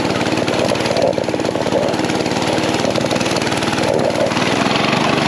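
Mini bike's small engine running steadily under throttle, with a rapid even firing pulse.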